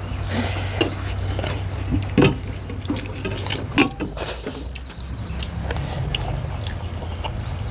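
Close-up eating sounds: wet chewing and mouth smacks with scattered short clicks, over a steady low hum.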